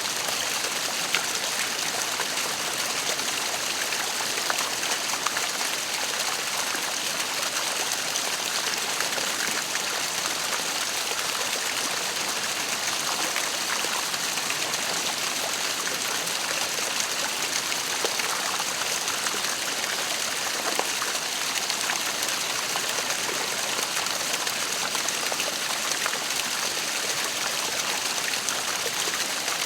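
Waterfall splashing and rushing steadily, a constant hiss of falling water.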